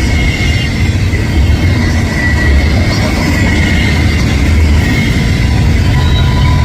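Double-stack container freight train passing close by, around its mid-train distributed power locomotives: a steady heavy rumble with a thin high ringing tone from the wheels on the rail.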